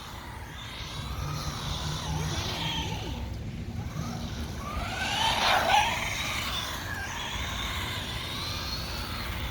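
Whine of a 1/16-scale SG-1603 RC drift truck's brushed electric motor, rising and falling in pitch as the throttle is worked through drifts, loudest about halfway through.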